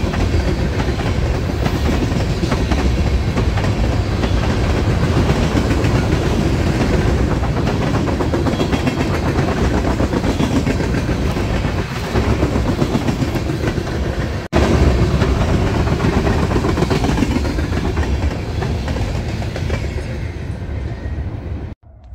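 A train passing close by: a steady, loud rumble of wheels with rapid clickety-clack over the rail joints. It breaks off for an instant about two-thirds through and cuts off abruptly near the end.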